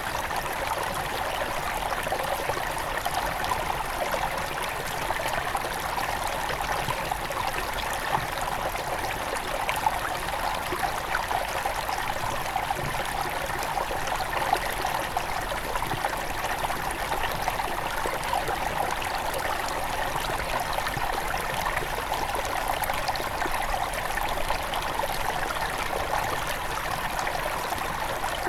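Small mountain river near its source, flowing steadily: water running and splashing over stones.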